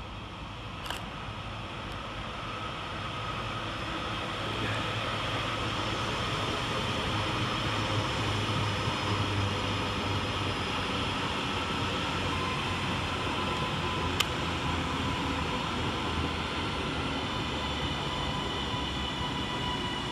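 Class 397 electric multiple unit running into the platform. Its sound builds over the first few seconds and then holds steady, with faint high steady tones in the second half and one sharp click about fourteen seconds in.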